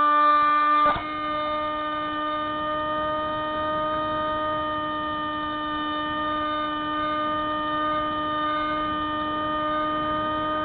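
Spyhawk FPV plane's electric motor and propeller running at steady throttle: a constant whining drone with many overtones. There is a faint click about a second in, after which the level dips slightly and holds.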